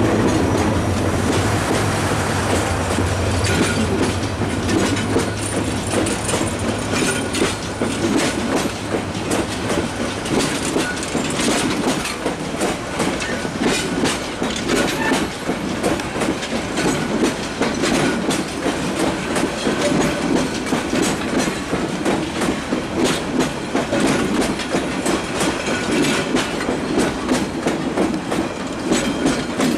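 A Bangladesh Railway passenger train pulling out, its carriages rolling past with wheels clicking over the rail joints in a steady clickety-clack. A low locomotive engine hum fades away over the first several seconds.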